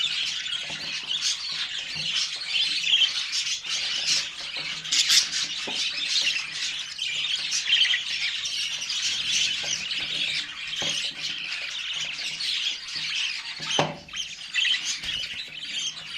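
Budgerigar chicks calling in a dense, continuous chatter of high chirps.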